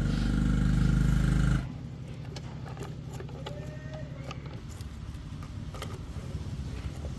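A motor running loudly and steadily, cutting off suddenly about a second and a half in, then a quieter steady hum with scattered light clicks.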